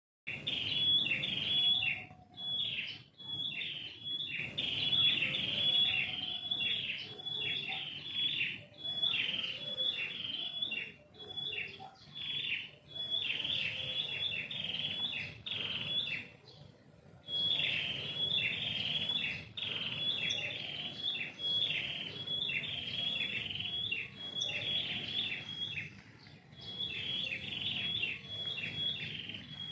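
Songbirds singing in a tree: long runs of quick, high-pitched chirping notes repeated many times a second, broken by a few short pauses.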